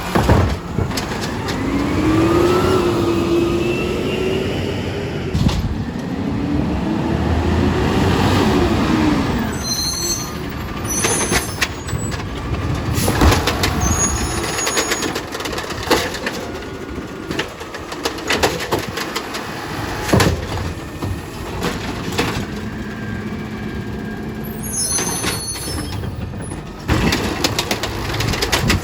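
Garbage truck at work: a hydraulic whine rises and falls twice in the first ten seconds. Knocks and bangs follow, with short high squeals like air brakes.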